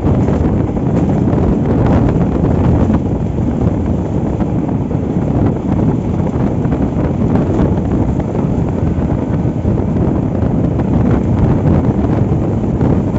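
Wind rushing over the microphone over the steady low rumble of a moving passenger train.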